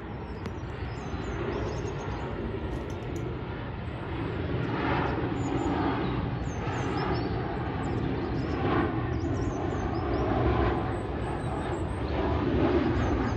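KLM Cityhopper Embraer regional jet's turbofan engines rumbling steadily as it passes on final approach to land, the sound swelling gently over the first few seconds and then holding.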